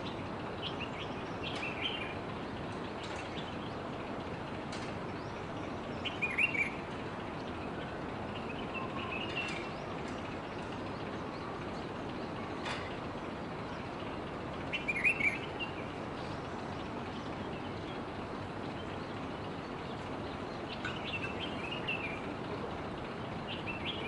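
Birds chirping in short clusters of high notes every few seconds over a steady background hiss.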